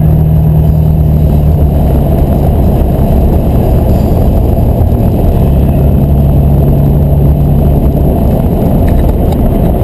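Car engine running at a steady cruise under dense road and wind noise, its note dipping and rising slightly a few times.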